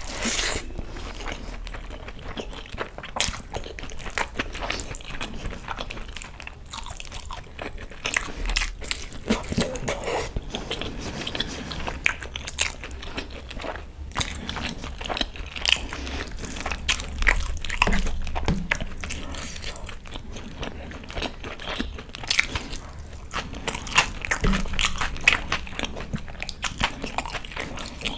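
Close-miked eating sounds of a mouthful of chicken egg fried rice and chicken Manchurian being chewed: a steady run of small wet clicks and mouth noises, with her fingers working the saucy rice on the plate.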